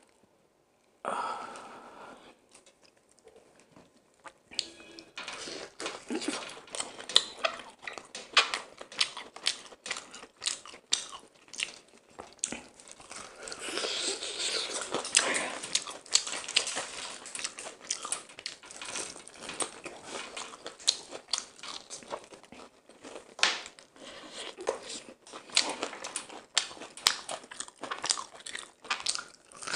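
Close-up eating sounds of a person biting and chewing crispy deep-fried chicken: many short crunches and crackles, with a brief tearing burst about a second in as a piece is pulled off.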